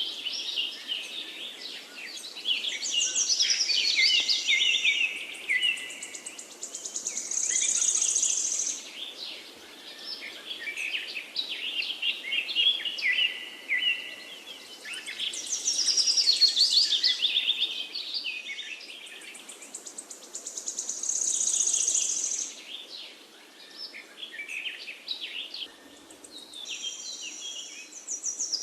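Several songbirds chirping and singing in a busy, overlapping chorus, with short high trills coming and going every several seconds over a faint steady background hiss.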